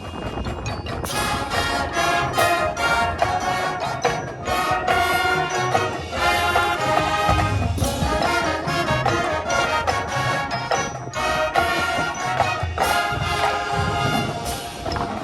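Brass band playing a tune with sustained chords and a steady rhythm, as at a marching band rehearsal, with wind rumbling on the microphone underneath.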